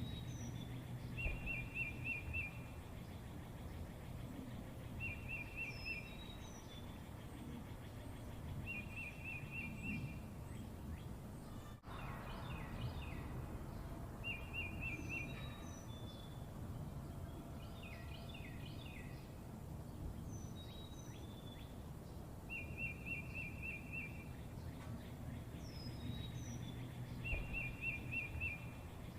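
Small birds chirping, with a short trilled phrase repeated every few seconds and scattered higher chirps, over a steady low hum.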